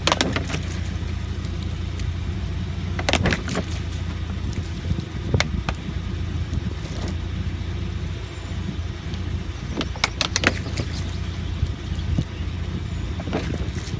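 UAZ Patriot running with a steady low hum while water is poured on its windshield to set off the rain sensor, with a few short swishes about three, five and ten seconds in and near the end.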